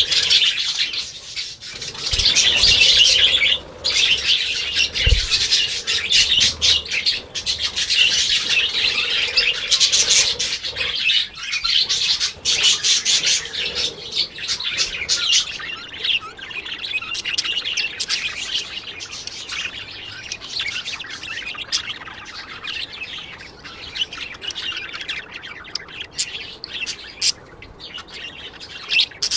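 A flock of parrots chirping and squawking in dense, overlapping chatter, with two brief low thumps in the first few seconds.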